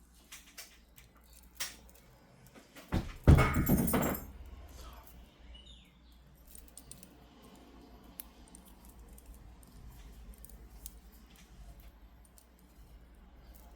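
Small stone beads clicking as they are handled, with a burst of jangling rattle about three seconds in, then faint scattered clicks.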